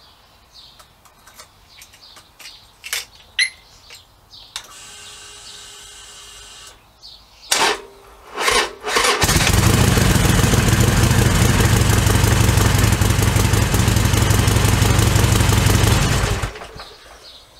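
Harley-Davidson Sportster XL1200R's air-cooled V-twin started warm after a ride. A short steady whine and two sharp clicks come first, then the engine catches about nine seconds in, runs for about seven seconds and cuts off suddenly when switched off. It has ZX1 friction-reducing additive in its fuel, engine oil and gearbox oil, and the owner reckons it sounds exactly the same as before.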